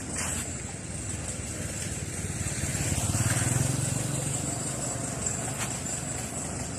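A motor vehicle passing, its engine rumble swelling and fading about three to four seconds in, over steady outdoor traffic noise.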